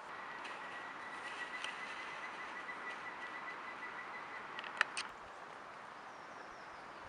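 Outdoor nature ambience: an even, high-pitched trill held for about four and a half seconds over a soft hiss, then two sharp clicks close together.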